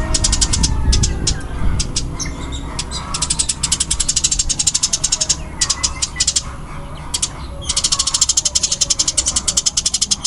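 Eurasian tree sparrow's fast, tightly packed chattering fight call, in bursts of rapid clicking notes, with long runs about three seconds in and again from about eight seconds in.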